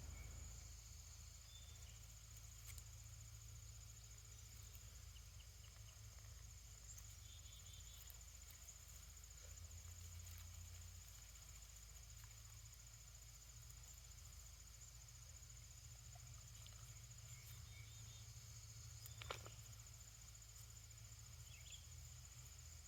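Faint outdoor ambience: a steady high-pitched chorus of crickets over a low rumble, with a few soft chirps and one sharp click about nineteen seconds in.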